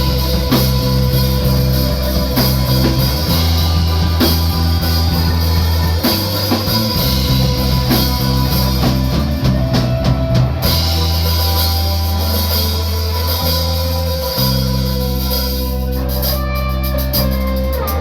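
Live rock band playing with drum kit, electric guitar and bass guitar, with held bass notes changing every second or two. The drum hits thin out about ten seconds in, leaving mostly sustained guitar and bass notes.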